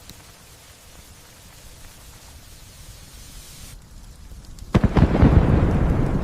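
Steady light rain hiss, then a sudden loud thunderclap about three quarters of the way through: a few sharp cracks followed by a deep rumble that is still dying away at the end.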